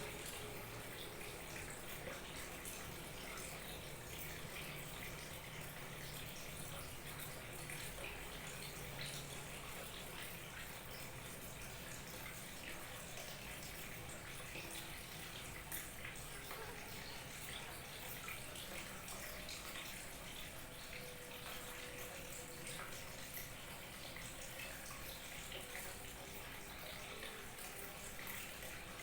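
Small waterfall trickling steadily, with many small splashes and drips.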